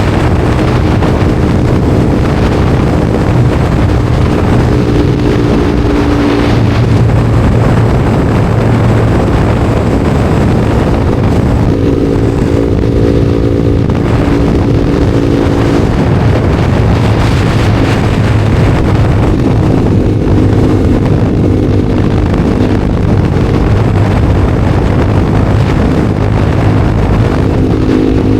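Honda CBR300R single-cylinder engine running under way at steady cruising revs, its pitch shifting a few times, with wind rushing over the microphone.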